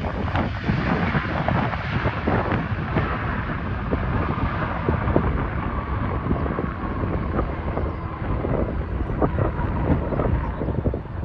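Jet airliner engine rumble from an aircraft passing, under heavy wind buffeting on the microphone.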